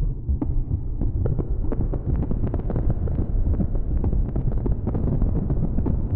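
Make Noise 0-Coast semi-modular synthesizer running a self-generating Krell patch through reverb and delay: a dense low rumble full of rapid short clicks and blips.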